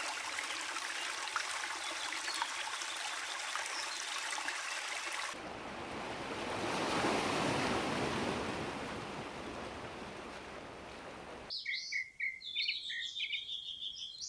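Water pattering finely, then cut to a steady rush of water that swells and fades, then cut to a small bird chirping in quick, high notes near the end.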